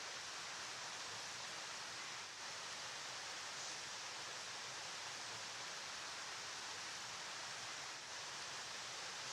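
Flowing river water, a steady, even rushing hiss with no breaks or changes.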